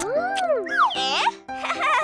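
Cartoon background music for children, with playful sliding sound effects or squeaky cartoon voice noises that swoop up and down over it, a brief break about one and a half seconds in, then another sweep falling in pitch near the end.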